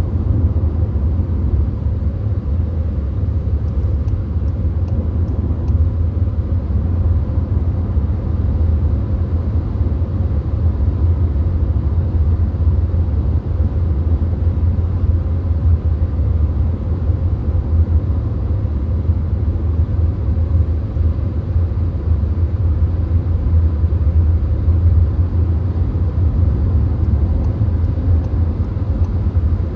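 Steady low rumble of road and engine noise inside a VW Golf cruising at motorway speed.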